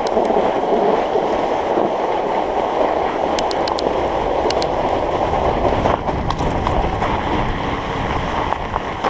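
Studded 45NRTH Dillinger 5 tyres on a Surly Moonlander fat bike rolling over a frozen, rutted trail of frozen footprints and ice: a steady rumbling tyre noise mixed with wind on the microphone, with a few light clicks around the middle.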